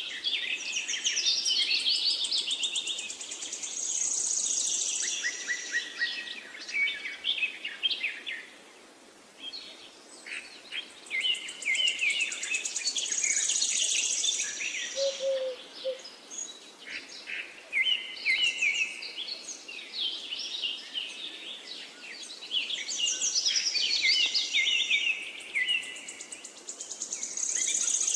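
Several birds singing and chirping, their high calls and trills overlapping, with a brief lull about nine seconds in.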